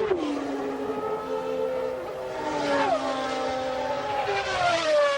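Naturally aspirated Honda RA121E V12 of the McLaren MP4/6 Formula One car running at high revs. Its pitch drops sharply near the start and again near three seconds, as the revs change with gear changes or lifts, then swings again near the end.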